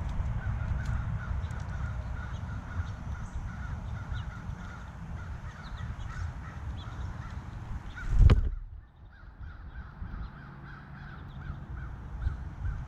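Corvid calls repeating over a steady low rumble, with one loud knock against the microphone about eight seconds in.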